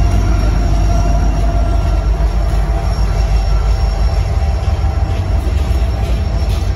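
Loaded coal train passing close: diesel locomotives and hopper cars rolling by with a loud, steady low rumble and a faint high wheel squeal.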